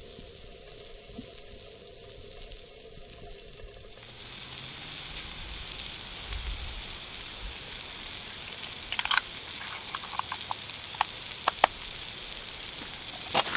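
Gammon steaks and fried eggs sizzling in a pan over a wood-burning stove, a steady hiss; from about two-thirds in, a run of sharp pops and crackles, the loudest near the end.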